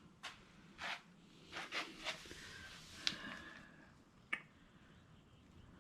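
A handful of faint, sharp clicks and light taps, scattered irregularly over the first four seconds or so, from hands and tools handling the Bronco door and hardware.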